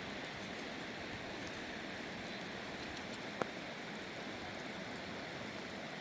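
Heavy rain falling steadily, with one sharp tick about halfway through.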